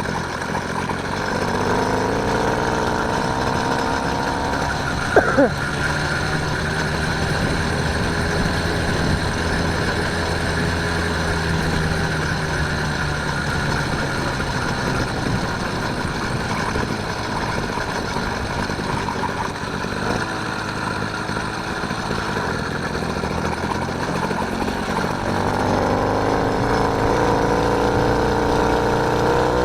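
Motorised bicycle's small engine running, its pitch rising as it speeds up in the first couple of seconds and again near the end. A short sharp knock about five seconds in.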